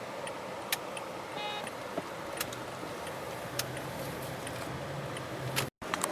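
Steady road and engine noise inside a moving car, with a few sharp clicks at uneven intervals and a brief cut-out of the sound near the end.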